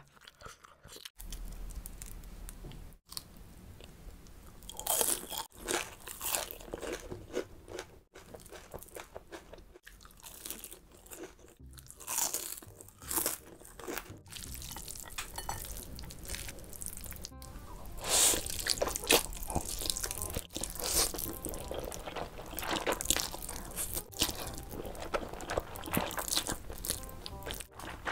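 Close-miked ASMR eating: chewing and crunching of spicy instant noodles and crisp fried food in short, irregular bursts, broken by a few brief gaps.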